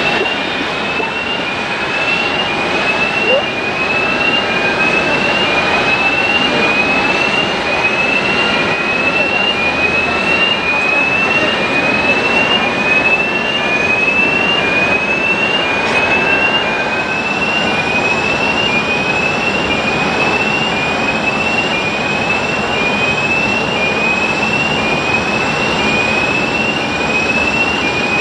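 Jet airliner engines running with a steady, loud rushing noise. Over it, a short high rising chirp repeats evenly, about every second and a quarter.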